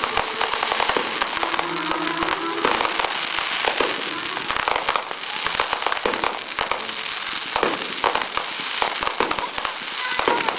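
Fireworks fired in rapid succession from a ground-level multi-shot cake: a dense, unbroken crackle of launches and star bursts with many sharp pops.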